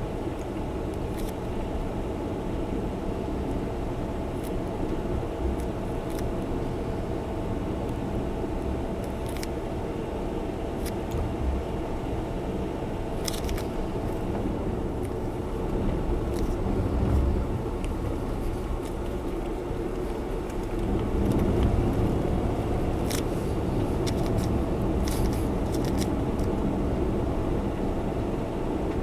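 Honda Zest Spark kei car being driven, heard from inside the cabin: steady engine and road noise that swells a little twice in the second half, with scattered small ticks and clicks.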